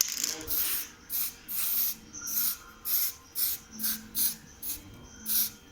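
Aerosol spray-paint can sprayed in about a dozen short bursts of hiss, putting a coat of paint over a fresh weld on a shock absorber to keep it from rusting.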